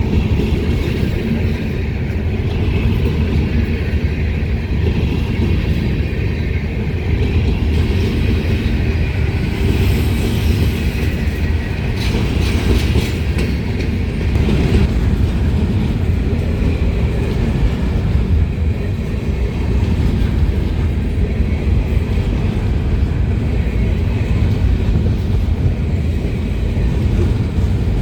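Freight train rolling past, a steady loud rumble of wheels on the rails, with a few brief clanks about halfway through.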